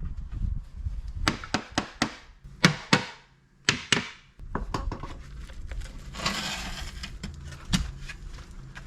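Hand work with steel rebar and tools: a run of sharp metallic clinks and knocks, with a short rushing scrape about six seconds in.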